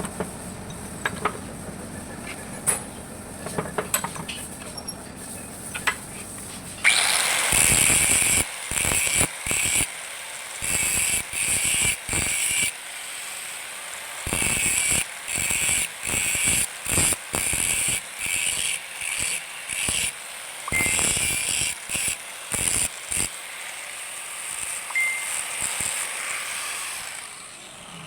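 Many short bursts of harsh hissing noise, switched on and off in quick succession, starting about seven seconds in and stopping just before the end. A few faint clicks come before them.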